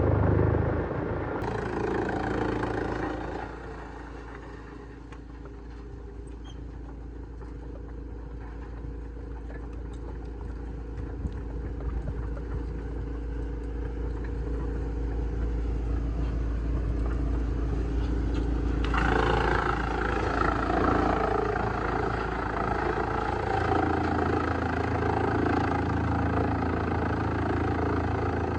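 Heavy wood-shredding machinery running, with a steady low engine hum. It is loud for the first few seconds and then eases off. About two-thirds of the way in, a louder, rougher noise comes in and carries on.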